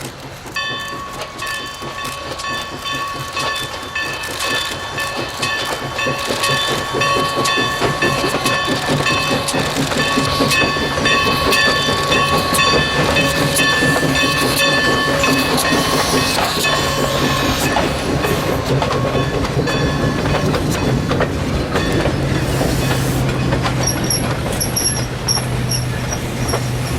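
Everett Railroad 2-6-0 steam locomotive No. 11 drawing near and passing with its train, getting louder. Its steam whistle sounds one long chord for most of the first two-thirds, over steady clacking of wheels on the rails. Near the end a quick repeated high ringing comes in over a steady low rumble.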